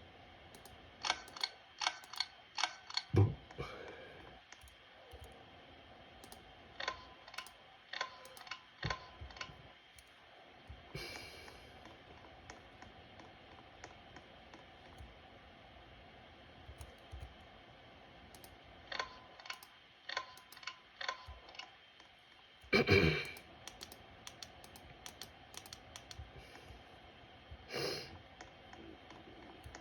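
Hampton Bay Medley ceiling fans running on low, with a faint steady hum and clusters of sharp ticks that ring briefly, and a louder rattle about two thirds of the way through.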